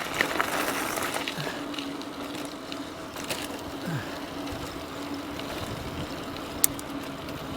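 E-bike on the move: a steady hum from its Bafang BBS02B mid-drive motor over tyre and wind noise, with a sharp click a little after two thirds of the way in.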